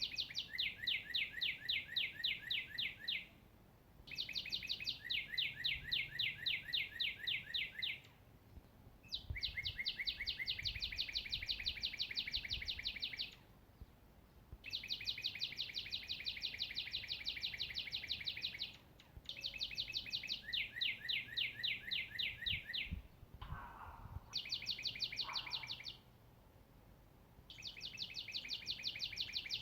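A songbird singing the same rapid trill over and over: phrases of about three to four seconds of quickly repeated high notes, separated by short pauses, about seven times.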